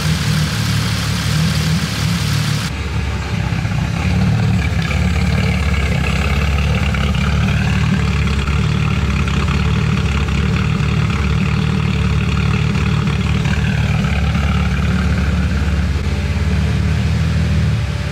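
Turbocharged Nissan 350Z's VQ35 V6 idling steadily while air is bled out of its cooling system, with a faint higher tone that rises and later falls.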